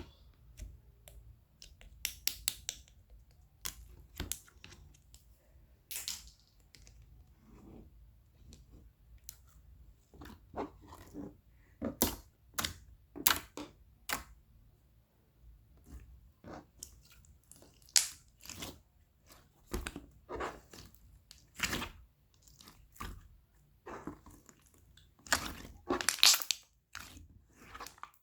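Galaxy slime being squeezed, poked and stretched by hand, giving irregular sticky clicks, pops and crackles, with louder clusters of pops around the middle and near the end.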